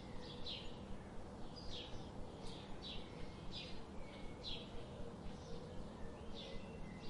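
Songbirds chirping: short high chirps repeated about once or twice a second, over a faint steady hum.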